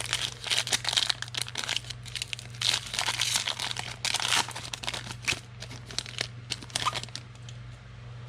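A trading-card pack wrapper being torn open and crinkled, in a run of crackly bursts that die away near the end.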